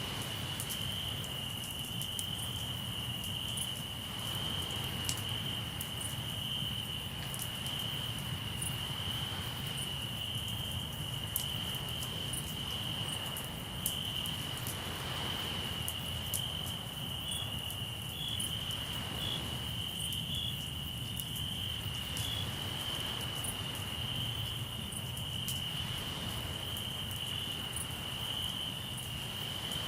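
Crickets trilling in one steady unbroken pitch, over campfire crackle with scattered sharp pops and a low steady wash of sea surf.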